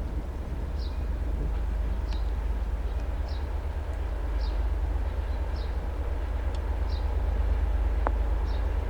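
Low, steady rumble of a 2M62U twin-section diesel locomotive's two-stroke engines hauling a freight train, growing slightly louder partway through. A short high chirp repeats about once a second over it.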